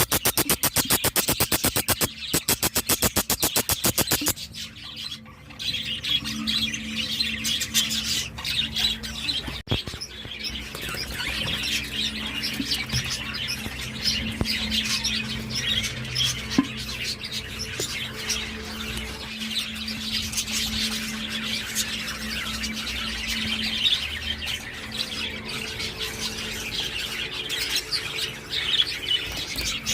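Many small caged birds chirping and squawking over each other without a break. For the first four seconds or so a fast, even pulsing covers them, then stops abruptly, leaving the chirping over a steady low hum.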